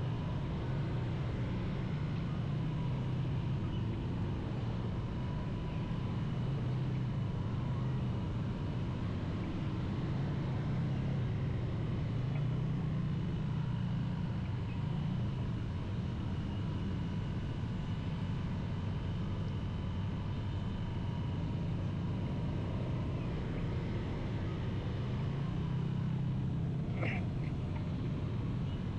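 Steady motorcycle riding noise: the engine running under way among city traffic, with a brief high-pitched sound near the end.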